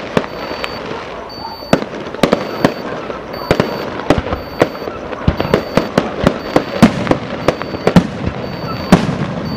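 Aerial fireworks bursting in quick, irregular succession: sharp bangs over a continuous crackle. The loudest bang comes near the end.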